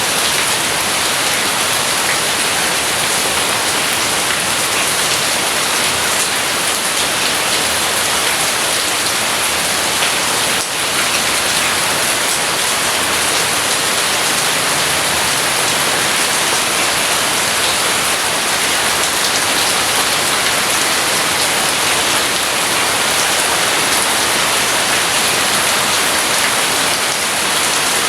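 Heavy rain falling steadily, a dense, even hiss of drops with no thunder heard.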